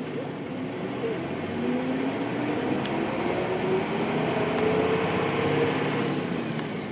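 Nissan Diesel Space Runner RM (KC-RM211) bus's FE6-series diesel engine, heard from inside the bus while under way. The engine pulls with its pitch rising steadily for several seconds as the bus accelerates, then eases off near the end.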